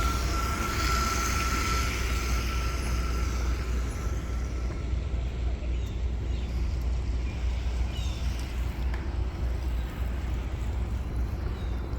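Steady rumble of city traffic, with a thin steady whine over it for the first few seconds.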